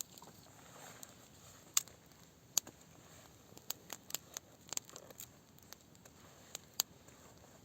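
Small wood campfire crackling, with irregular sharp pops and snaps, a few of them louder than the rest.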